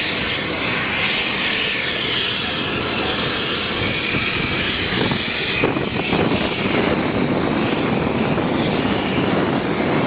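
Hongdu L-15 jet trainer's engines heard in flight as a steady, loud rushing noise, growing a little louder about six seconds in.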